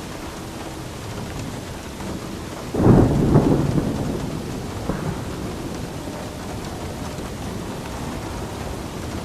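Steady rain falling, with a sudden loud clap of thunder about three seconds in that rumbles away over a couple of seconds, and a smaller jolt of thunder shortly after.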